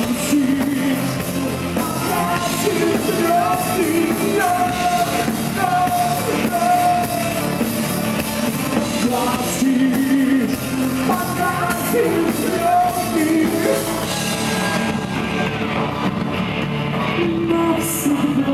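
Live rock band playing with a voice singing held melodic notes over it; the cymbal wash thins out about fifteen seconds in.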